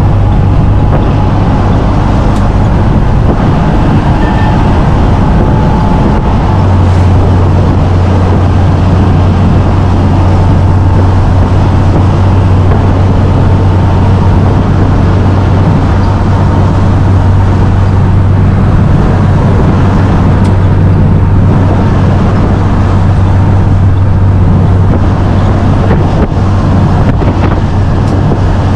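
Military truck on the move: a steady low engine drone with road noise. The low hum grows stronger about six and a half seconds in.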